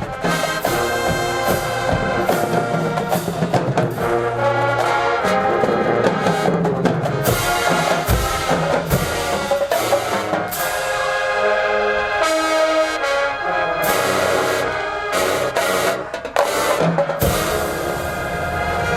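HBCU marching band playing: a brass section (trumpets and trombones) with drums, loud and full. Near the end the horns drop out under a few sharp drum hits, then the whole band comes back in.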